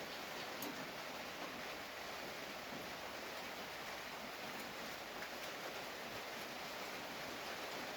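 Steady hiss of background noise, with a few faint small clicks.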